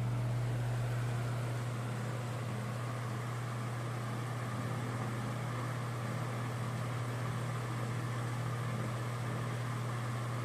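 Ventisol VOP 60 G4 60 cm wall fan running steadily at medium speed: a strong, steady low motor hum under the even rush of air from the blades. It is not a very quiet fan.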